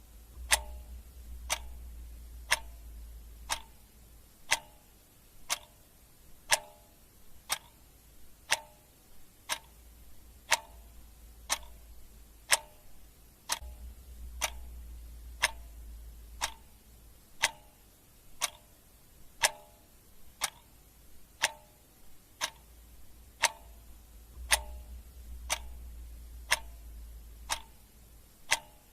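Clock ticking steadily, one sharp tick about every second. A faint low hum comes and goes underneath.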